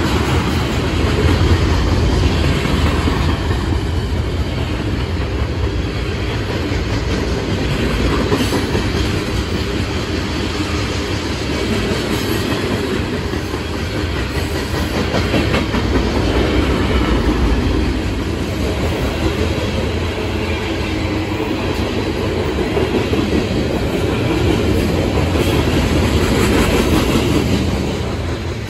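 A manifest freight train of tank cars and covered hoppers rolling steadily past: the continuous rumble of steel wheels on rail.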